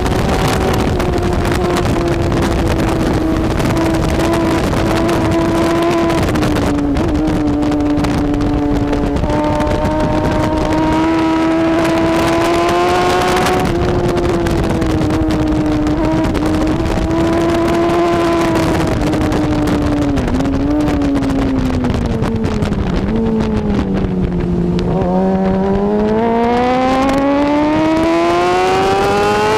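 BMW S1000RR superbike's inline-four engine at racing speed, held at high revs with short dips in pitch as it changes gear. Near the end its pitch falls steadily as the bike slows, then climbs again as it accelerates hard.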